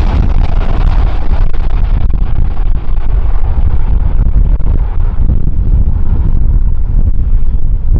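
Strong wind buffeting the microphone in a loud, steady low rumble, with a rushing hiss above it that slowly dies down.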